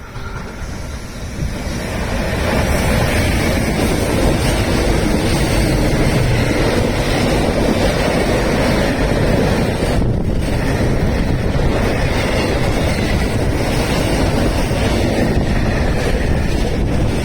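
Freight train hauled by an EF210 electric locomotive passing at speed: a loud, steady rush of wheels on rails that builds over the first two seconds, with wind noise on the microphone.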